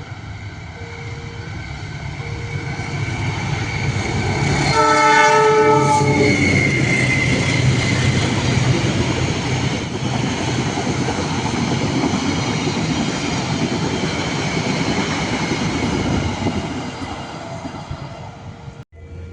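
A locomotive horn sounds one blast of about a second, about five seconds in, and the train then passes close by with a loud rumble and wheels clacking over the rails, easing off near the end.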